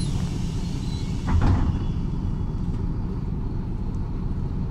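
Steady low rumble of a MAZ-103 city bus running, heard from inside the cabin, with a brief louder knock about a second and a half in.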